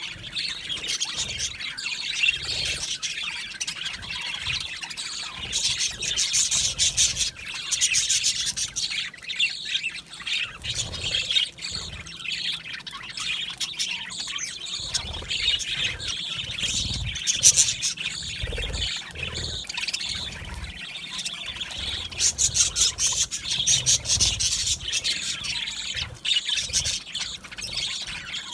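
Budgerigars chattering, chirping and warbling steadily, many voices overlapping at once.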